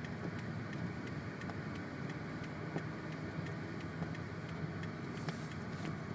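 Car driving slowly on a snow-covered road, heard from inside the cabin: a steady low engine hum under road and tyre noise, with faint rapid ticking and a brief hiss about five seconds in.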